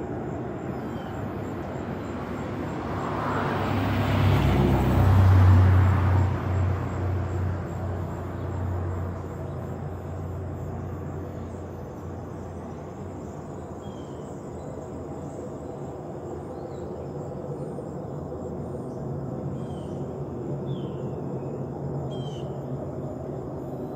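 Echoing low rumble in the sky, like a huge plane passing. It swells to its loudest about five seconds in, then settles into a steady low drone, with a few faint bird chirps near the end.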